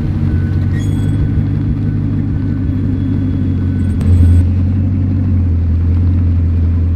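A car engine running steadily with a deep rumble, a little louder about four seconds in.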